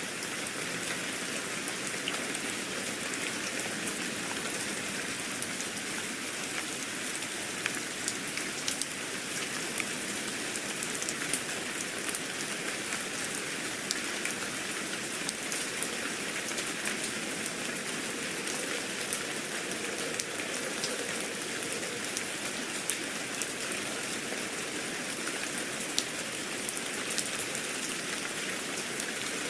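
Steady rain falling: a continuous hiss with many small, scattered drop taps.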